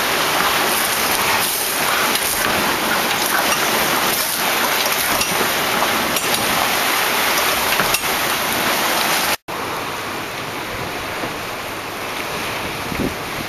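Steady hiss of wind-driven rain in rough weather. It breaks off in a sudden dropout about nine seconds in and comes back quieter.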